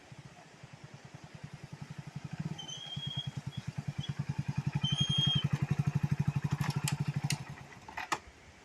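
Motorcycle engine running with a fast, even low thumping that grows louder and then stops abruptly about seven seconds in, followed by a couple of sharp clicks. A bird chirps twice in the middle.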